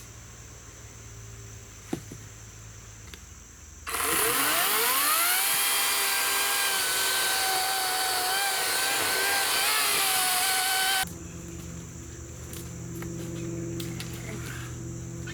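EGO 56-volt battery chainsaw with an 18-inch bar spinning up with a rising whine about four seconds in, then running at speed through a log for about seven seconds, its pitch wavering slightly under the load, and cutting off abruptly.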